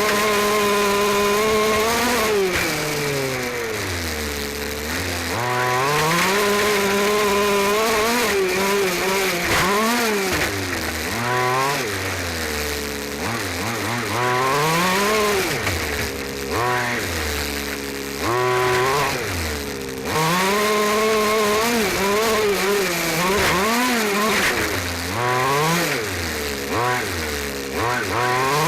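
Losi 5ive-T's 29cc two-stroke engine revving up and falling back again and again as the throttle is worked, heard onboard the fifth-scale truck, over a steady hiss of tyres on gravel.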